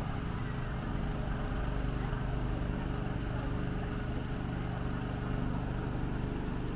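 An engine running steadily at an even speed: a constant low hum with a faint steady tone above it.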